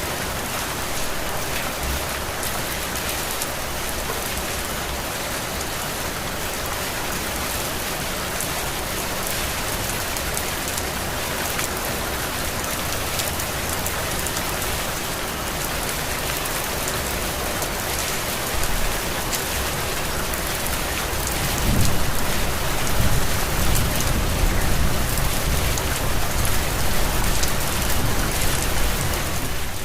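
Heavy rain falling steadily as an even hiss. About 22 seconds in, a low rumble of thunder comes in and keeps rolling under the rain.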